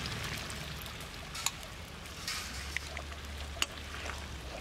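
Chopped tomatoes sizzling and crackling in hot oil with onions in a large cooking pot as they are tipped in and stirred. A few short, sharp clinks of a steel ladle against the pot.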